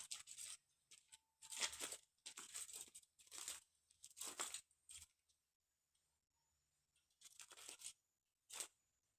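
A series of short rustling, scraping noises, about seven bursts with pauses between them, then quiet near the end.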